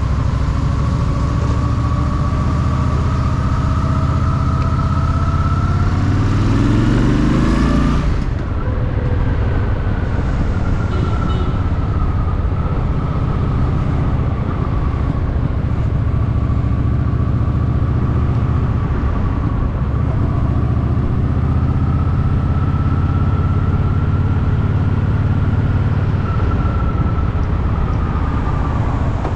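Honda Shadow VT750's V-twin engine running under way. It revs up with rising pitch from about six seconds in and drops off suddenly around eight seconds, as on a gear change or a roll-off of the throttle, then runs on steadily with slow swells in pitch.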